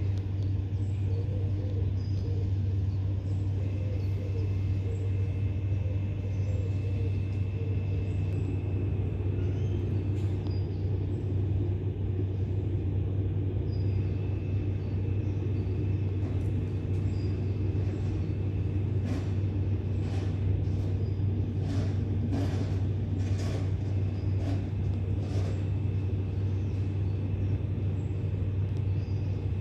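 Steady low mechanical rumble, like machinery or an idling engine, with a faint high whine over it and a run of sharp clicks or taps about two-thirds of the way through.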